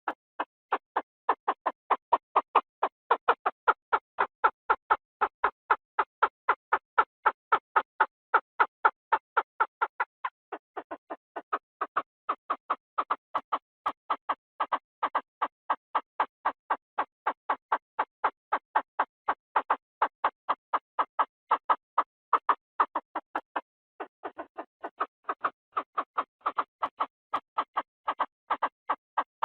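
Chinese francolin calling: a long run of short, harsh notes at about three to four a second, with brief breaks about ten seconds in and again near the end.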